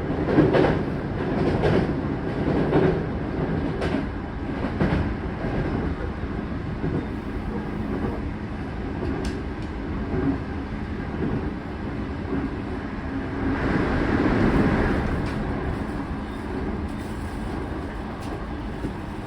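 Interior running noise of an Odakyu 4000 series electric train car: wheels clicking over rail joints over a steady rumble. There are several sharp joint clicks in the first few seconds, a swell of noise around two-thirds of the way through, and the running noise eases off toward the end as the train slows.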